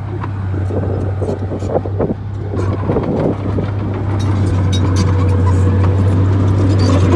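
Bulldozer diesel engine running with a steady low drone, with irregular clanks and rattles over it. It grows louder about halfway through.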